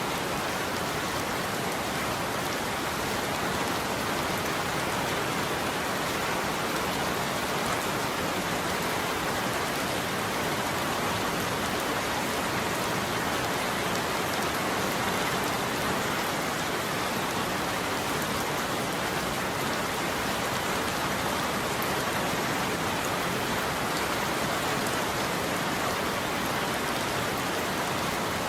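Steady rain falling on a roof, an even hiss of many drops with no break in level.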